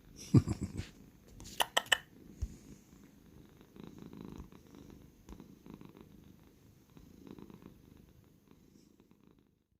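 Domestic cat purring close to the microphone, the low rumble swelling and easing with each breath, with a few sharp clicks about one and a half to two seconds in. The purr fades out near the end.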